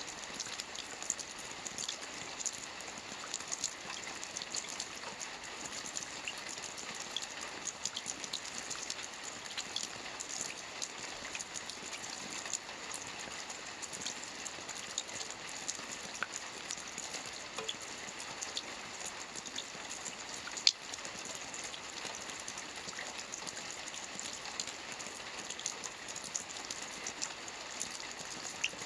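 Steady rain falling on a lake's surface: an even hiss full of many small drop ticks. One sharper drop stands out about two-thirds of the way through.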